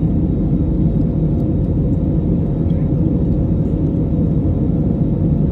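Airliner's jet engines at takeoff power, a loud, steady low rumble with no change in level.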